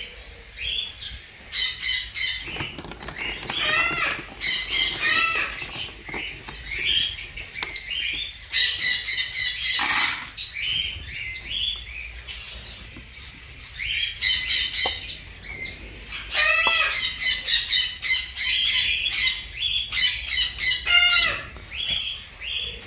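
Small parrots calling loudly in bouts of rapid, harsh, repeated squawks, several birds at once, with short lulls between the bouts.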